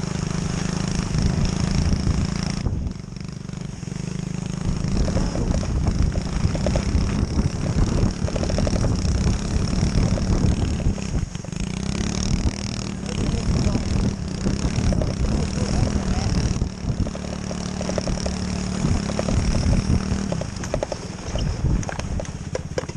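Pit bike engine running under throttle, its pitch holding fairly steady with small ups and downs, over a constant rushing noise.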